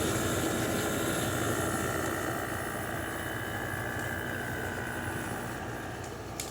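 LG 6000 BTU window air conditioner running just after its compressor has started, with refrigerant hissing through the system over the unit's steady hum. The sound slowly grows quieter, and a faint high tone in it fades out near the end.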